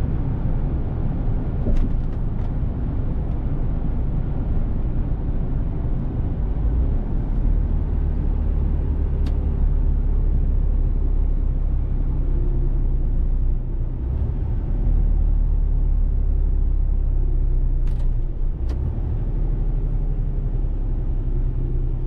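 Mercedes-Benz Actros truck's diesel engine running on the move: a steady low drone whose note shifts a few times, dipping and then coming back louder about two-thirds of the way through. A few brief clicks are scattered through it.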